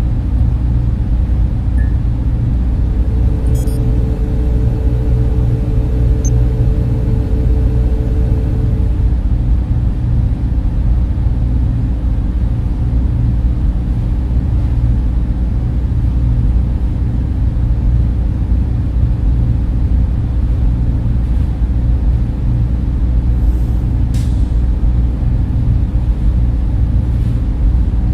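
Server room machines and cooling fans running with a steady, deep drone, mostly low in pitch. A faint higher hum joins in for a few seconds about three seconds in.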